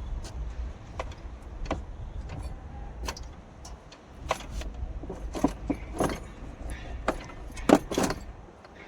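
Scattered metallic clinks and knocks, the loudest a quick pair near the end, over a low steady hum.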